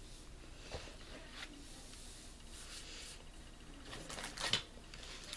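A person chewing and eating a soft marshmallow-topped jam biscuit, with faint mouth sounds and a few small clicks, and a louder cluster of short crisp sounds about four and a half seconds in.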